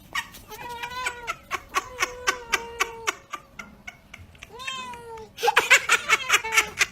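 A cat meowing: one long drawn-out call about a second in, then a shorter falling meow near the five-second mark. A run of sharp clicks or taps sounds alongside, thickest near the end.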